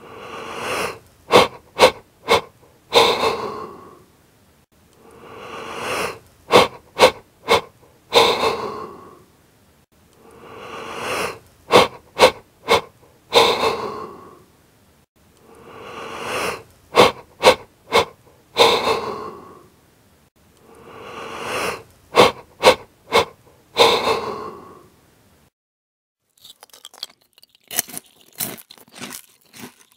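A mouth noise repeated five times at an even pace: each time a breathy, wheezing swell, four sharp clicks in quick succession, then another breathy swell. Near the end a fainter run of crackling clicks begins.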